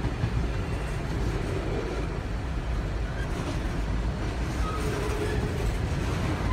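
Empty Norfolk Southern coal cars rolling past slowly: a steady low rumble of steel wheels on the rails.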